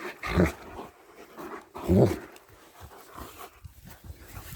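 German Shepherd dog giving two short vocal calls, one about half a second in and the louder one about two seconds in, with panting and scuffling between them.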